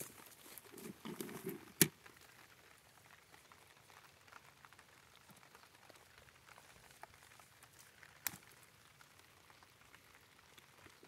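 Light rain pattering on plastic mulch, with scattered drops ticking. There is a brief rustle about a second in, and two sharp taps, one near two seconds and one around eight seconds.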